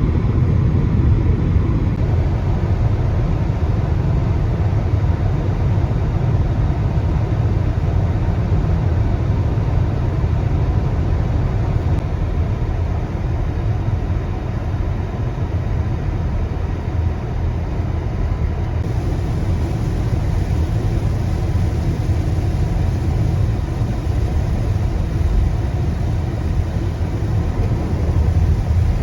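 Steady low rumble of a car driving along the road, its tyre and engine noise heard from inside the vehicle.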